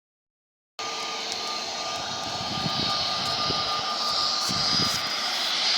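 Airliner engines running before takeoff: a steady rushing hiss with a thin whine held through it, growing slightly louder toward the end. The sound cuts in abruptly under a second in.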